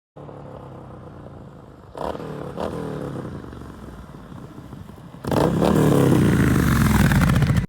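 Triumph Bonneville T120 Black's 1200 cc parallel-twin engine through an aftermarket full exhaust system. It idles, is blipped twice with the revs falling back each time, then is revved hard and held high for a couple of seconds before cutting off suddenly.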